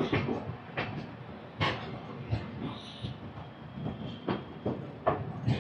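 Moving passenger train: a steady rumble with irregular sharp clacks and knocks as the wheels run over rail joints.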